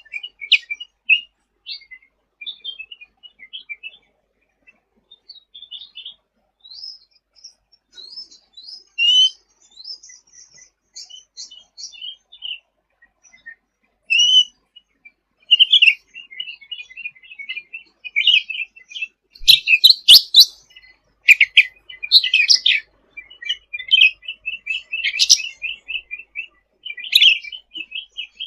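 A cucak ranting songbird singing a busy, rapid chatter of high chirps and short trills. The song grows louder and denser in the second half.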